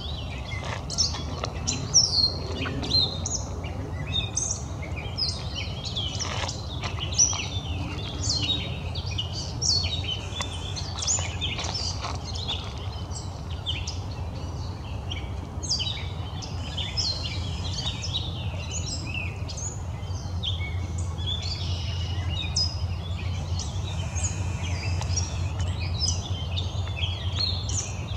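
Many wild birds chirping and singing, a dense run of short calls throughout, over a steady low hum.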